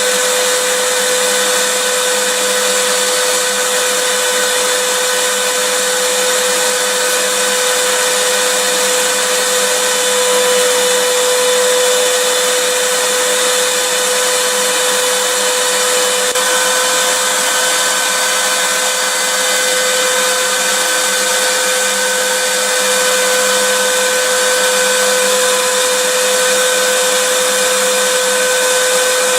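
Vacuum cleaner motor running steadily, a constant rushing hiss with a steady mid-pitched whine, played as soothing white noise.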